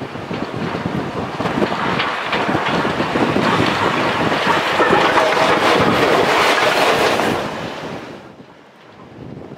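A train passing close by, its wheel and rail noise building over several seconds and then falling away quickly near the end, with wind on the microphone.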